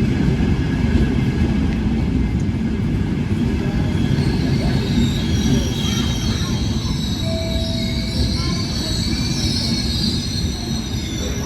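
Train passing close by with a loud steady rumble of wheels on rails, and high-pitched wheel squeal setting in about four seconds in and continuing nearly to the end.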